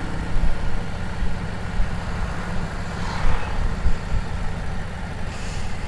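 Motorcycle engine running steadily while under way, a low even drone with road noise.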